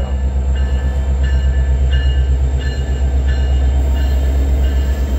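Union Pacific diesel freight locomotive approaching and passing with a steady low engine rumble. Over it comes a ringing tone repeated about every two-thirds of a second, typical of a locomotive bell.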